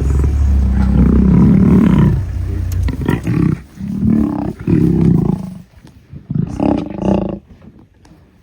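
Lions vocalizing in a fight: one long, loud call over the first two seconds, then several shorter outbursts that die down near the end.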